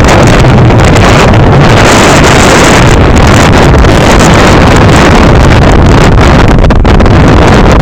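Heavy wind buffeting the microphone: loud, steady rumbling noise with no break.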